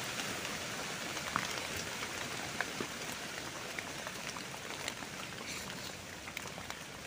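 Rain falling steadily on wet forest leaf litter, with scattered sharp drip-like ticks.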